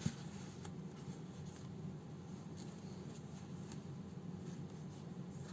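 Faint scratching and small ticks of hand-sewing: a needle and thread being worked through a house slipper's fabric, with a sharp click at the very start and a steady low hum underneath.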